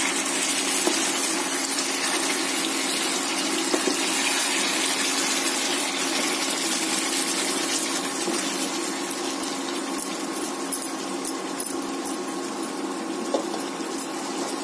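Chicken curry sizzling in a nonstick kadai as it is stirred with a wooden spatula: a steady hiss over a low hum, with a few light taps of the spatula against the pan in the second half.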